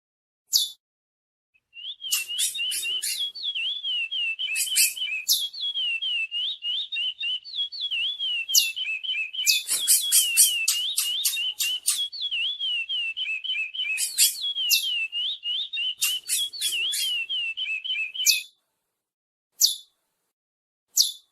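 Curió (chestnut-bellied seed finch) singing a long, fast warbling song of rising and falling whistled notes, starting about two seconds in and stopping near the end. Sharp, high chirps are scattered through it, with a few lone chirps before and after the song.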